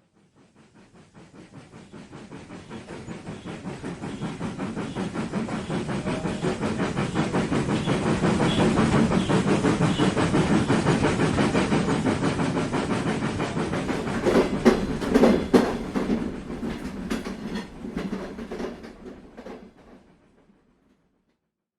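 A train running along track, its wheels clicking rapidly and evenly over the rail joints. It swells up from nothing, holds, gives a run of sharper, louder clacks about two-thirds of the way through, then fades away.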